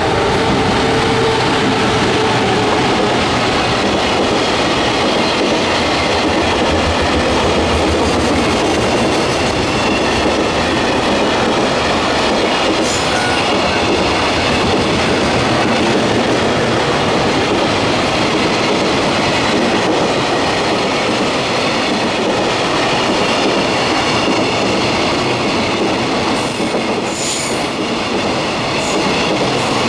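A container freight train hauled by a JR Freight EF200 electric locomotive is rolling past, its container flatcars' wheels making a steady, loud rolling rumble on the rails. A thin, high-pitched wheel squeal rises near the end.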